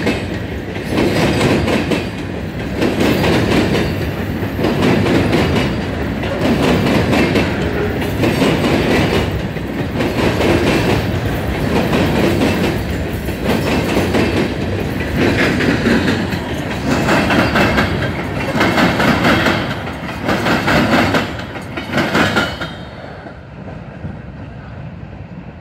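Freight train of ballast hopper cars rolling past, the steel wheels clattering over the rail joints in a regular rhythm of swells about every second and a half. The clatter drops away suddenly near the end as the last car goes by.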